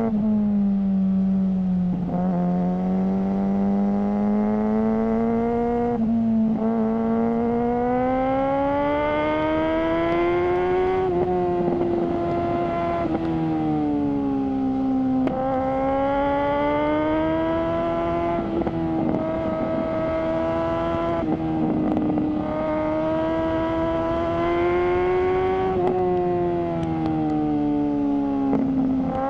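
Suzuki GSR600 inline-four engine through a GPR Ghost aftermarket exhaust, running steadily under way. Its pitch climbs and dips slowly, with short breaks every few seconds where the pitch steps, as with gear changes.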